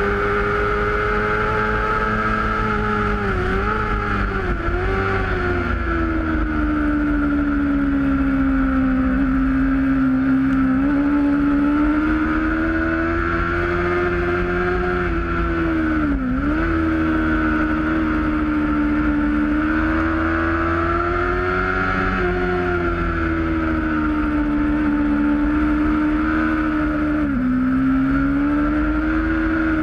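Onboard sound of a 600cc inline-four sport bike's engine held at high revs at racing speed, its pitch dipping sharply and recovering several times, with wind rush underneath.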